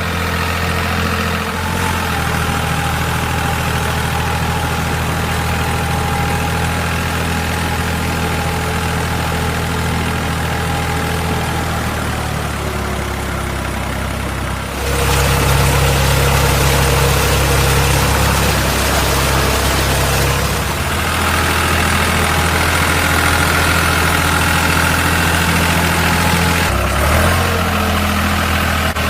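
Steady engine hum running throughout, stepping to a louder, different pitch about halfway through and shifting again a few times.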